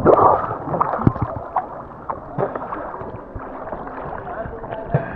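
Kayak being paddled: water splashing and swishing from the paddle strokes, with a few sharp knocks scattered through.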